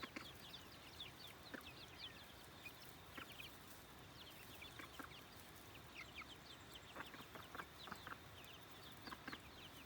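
A flock of chickens clucking and peeping faintly, with many short, high, falling peeps and scattered low clucks.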